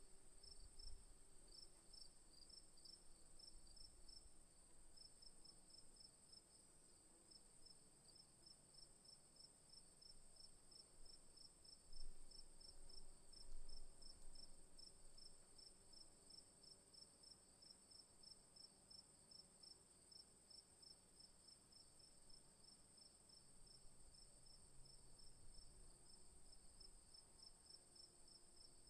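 Faint chorus of crickets in bushland: one insect keeps up an unbroken high trill while another chirps in quick, even pulses several times a second. A couple of brief low thumps come about halfway through.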